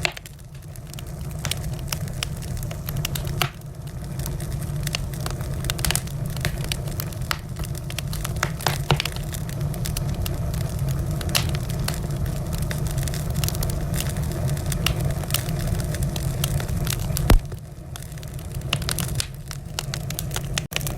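Wood fire in a fireplace crackling, with frequent sharp pops and snaps over a steady low rumble of the flames. One loud pop stands out about seventeen seconds in.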